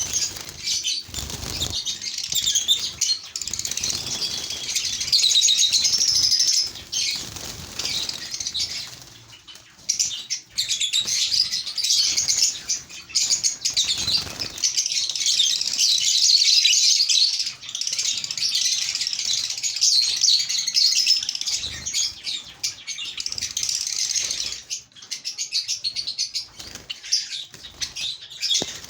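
A flock of lovebirds chattering with dense, continuous, shrill chirps, and now and then wings flapping.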